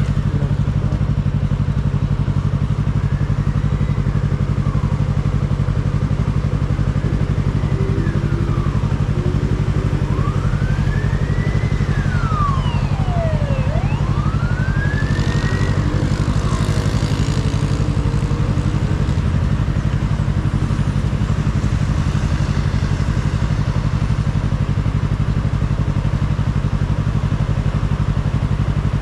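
Yamaha R3 motorcycle's parallel-twin engine running at a steady cruise with wind noise, the engine note holding level throughout without revving. A few faint rising-and-falling whistling tones come and go between about 3 and 17 seconds in.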